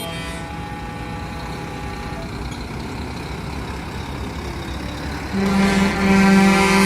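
Heavy trucks' diesel engines running. About five seconds in, a truck air horn starts a loud, long, steady blast.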